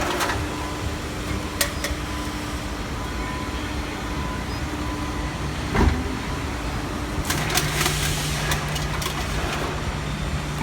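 250-ton hydraulic metal baler's pump and motor running with a steady hum, with a heavy thump about six seconds in. A lower steady tone joins from about two-thirds through, along with a run of clicks and clanks.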